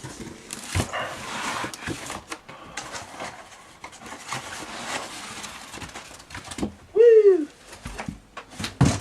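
Cardboard box and packing foam rustling and scraping as a boxed 3D printer is worked out through the bottom of its box. About seven seconds in, a man's excited "woo!" rises and falls in pitch, the loudest sound, and a short thump comes just before the end.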